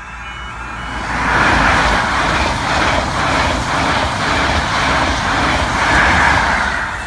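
GWR InterCity 125 high-speed train passing at speed over a level crossing: a loud rush of wheels on rail that builds about a second in and stays strong, swelling again near the end as the rear Class 43 diesel power car goes by, then starting to fade.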